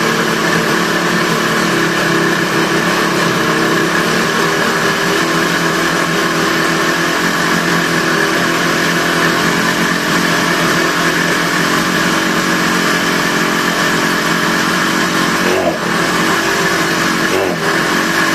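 Yamaha HS1 motorcycle's two-stroke HX90 engine running steadily indoors, with a jingling mechanical rattle that the room makes stand out, and two brief dips in its note near the end.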